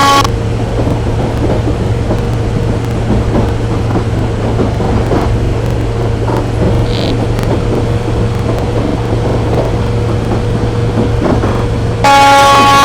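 Steady rumbling running noise of a moving train, with a constant low hum throughout.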